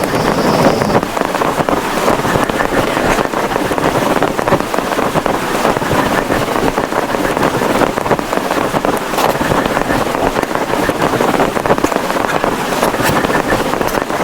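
Heavy rain falling on a plastic tarpaulin: a loud, steady rush of countless drops hitting the sheet.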